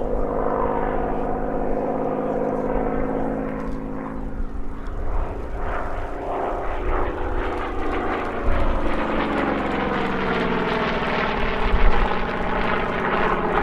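Propeller-driven Second World War fighters (a Goodyear Corsair, a Hawker Hurricane and a North American Mustang) flying past together, their piston engines droning, with the pitch sliding down in the second half as they pass.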